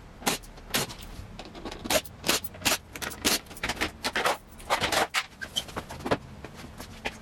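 Irregular clicks, knocks and scrapes of hard objects being handled and set down, several sharp strikes a second at times.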